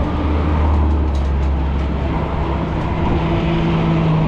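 A motor vehicle's engine running close by, over road and wind noise: a low steady hum for the first two seconds, then a steady tone a little higher that rises slightly.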